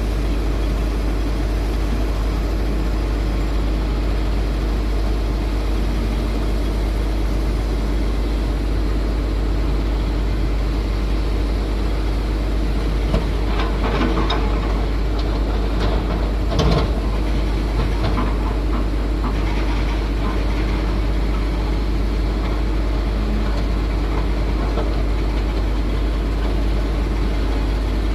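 Heavy diesel machinery running steadily at a low, even speed, with a stretch of knocks and clatter about halfway through, the loudest a little after the middle.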